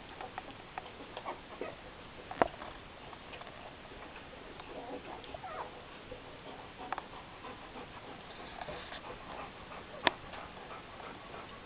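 Nine-day-old puppies making faint squeaks and whimpers on and off, with two sharp clicks about two seconds in and again near the end.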